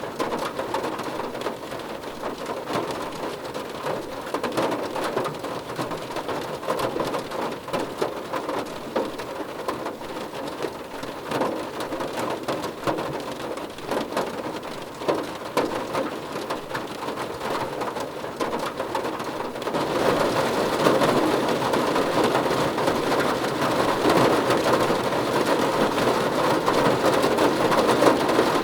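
Rain falling on a car roof: a dense, crackling patter of drops that grows louder and heavier about twenty seconds in.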